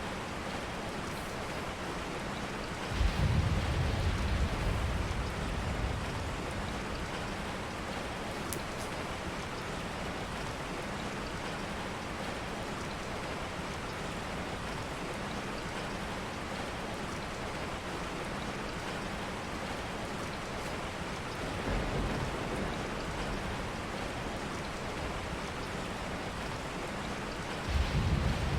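Steady rain, with a low rumble swelling up a few seconds in, another past the middle, and a third near the end.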